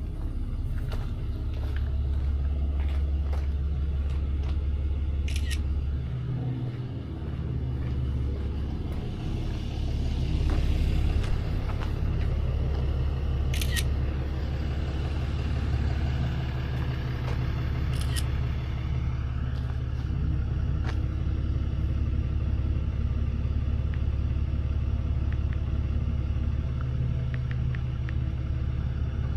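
Tow truck running, a steady low engine and road rumble heard from inside the cab, with a brief dip about seven seconds in and a few light clicks.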